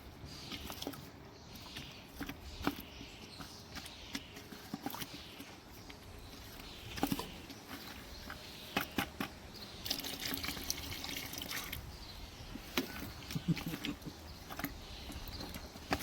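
Water being poured into a bucket of fermenting quail feed, topping up feed that has dried out until it is soupy. There are scattered knocks and clicks, and a steadier pour for a couple of seconds about ten seconds in.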